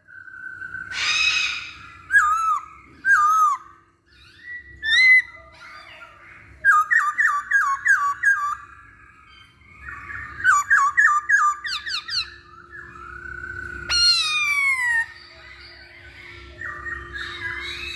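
Masked laughingthrush (poksay Hongkong) singing loud, repeated whistled phrases and rapid runs of short notes, with harsh chattering calls near the start and end.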